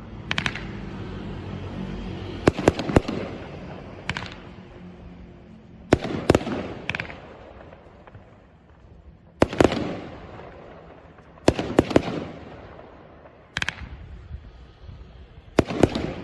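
Fireworks going off: sharp bangs in clusters of one to three every two seconds or so, each followed by a fading crackle and rumble.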